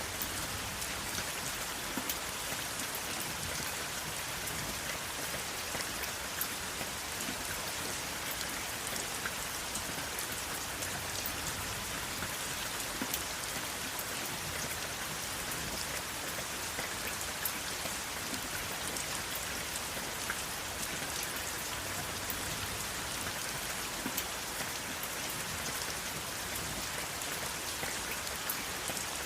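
Steady rain falling, an even hiss with many individual drops ticking sharply on a surface, and no thunder.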